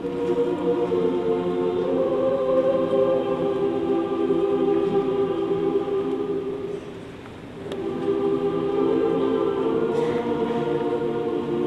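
Choir singing long held notes, breaking off briefly about seven seconds in before the next phrase.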